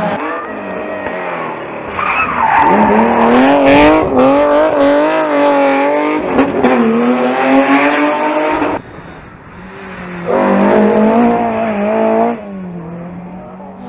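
Rally car engine revving hard through a sideways slide, its pitch climbing and wavering under heavy throttle, with tyre noise. Near the middle it lifts off, then gives a shorter second burst of throttle before easing off again.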